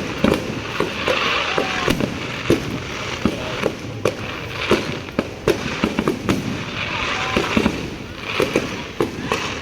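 Fireworks going off: an irregular string of sharp bangs and pops, about two a second.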